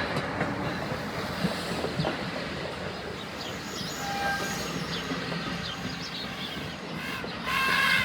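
Passenger train rolling past at trackside: a steady noise of wheels on the rails with some clickety-clack. A brief louder sound with a pitched tone comes near the end.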